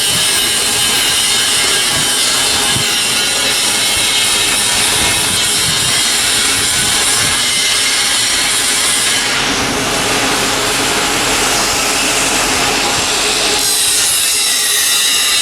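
A power tool running steadily with a loud, continuous noise. Its sound changes about nine seconds in and again near the end.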